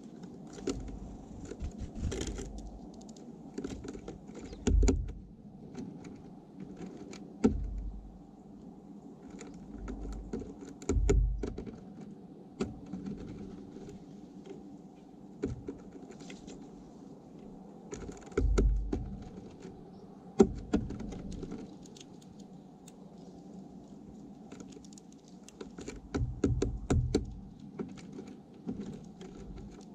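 Birds feeding at a feeder close to the microphone: scattered sharp clicks and taps of beaks and feet on the feeder and seed, with occasional low thumps over a steady low hum.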